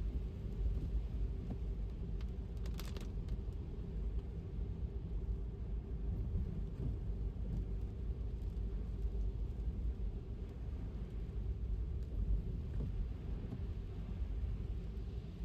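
Electric car driving on a wet road in rain, with a steady low road and tyre rumble and a faint steady hum. A brief cluster of clicks comes about three seconds in.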